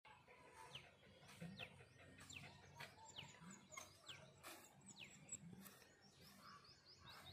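Faint bird calls: many short, high whistled notes falling in pitch, repeated throughout. Soft crunches of footsteps on dry leaf litter are mixed in.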